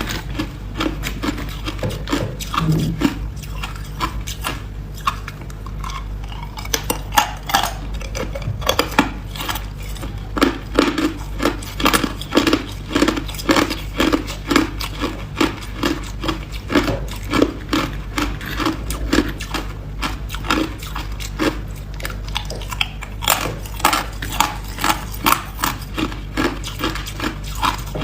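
Hard ice being bitten and chewed close to the microphone: a continuous run of sharp cracks and crunches, at times about two a second.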